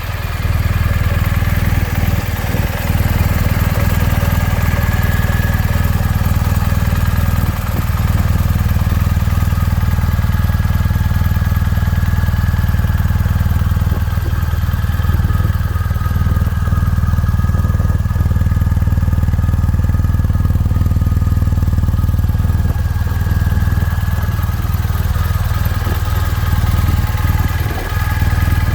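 Motorcycle engine running steadily at a constant speed, with no revving.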